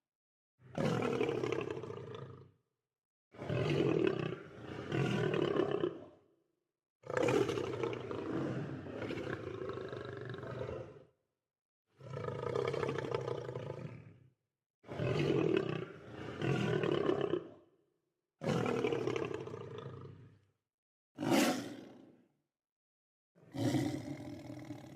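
Lion roaring in a string of separate calls, each lasting from under a second to about four seconds, with gaps of dead silence between them.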